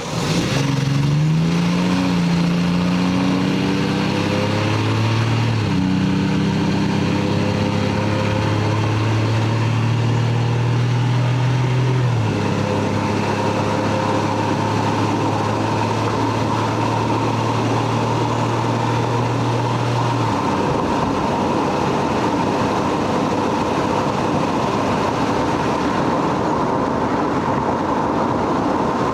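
Stock Lexus GS300's 3.0-litre inline-six pulling under way: its note climbs at first, then changes pitch in a couple of steps over a steady rush of road noise. About two-thirds of the way through the engine note fades, leaving the road and wind noise.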